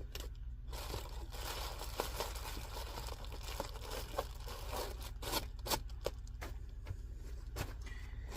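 Hands rubbing, scraping and crinkling tape down onto HVAC work, with irregular scrapes and short clicks over a steady low hum.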